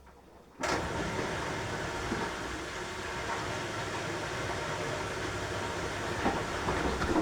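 Beko washing machine starting up abruptly after a quiet pause in its wash cycle, then running with a steady, even noise and a low hum underneath.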